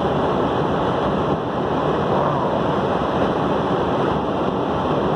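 Blizzard wind blowing through the open window of a truck: a loud, steady rush of wind noise.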